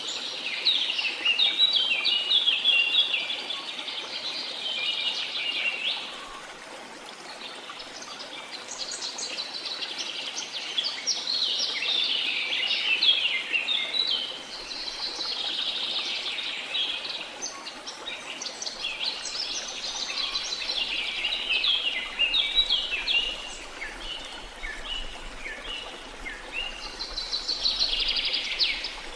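Songbirds singing in quick, chattering high-pitched phrases, one after another with short pauses, over a faint steady rush of running water.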